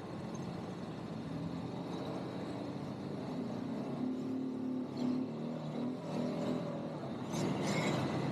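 ATV (quad bike) engine running, its pitch rising and falling with the throttle. A louder, rougher stretch comes near the end.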